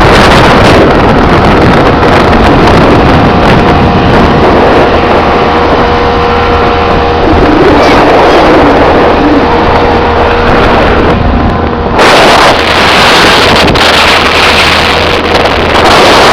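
Motorboat under way, its outboard engine running steadily under heavy wind noise on the microphone, very loud throughout. The wind gusts harder about twelve seconds in and again near the end.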